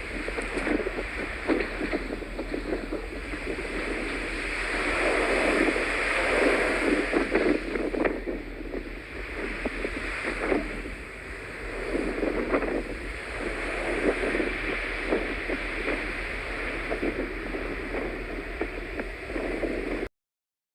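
Blizzard wind gusting hard across the microphone, a rushing noise that swells and eases every few seconds with crackling buffets, then cuts off suddenly near the end.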